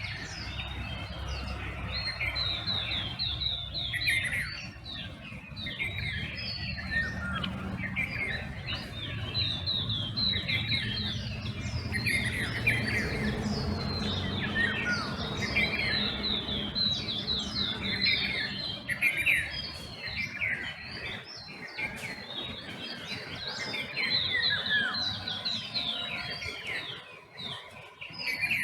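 Dawn chorus of many songbirds chirping and trilling over one another, with a low rumble underneath that fades out about two-thirds of the way through.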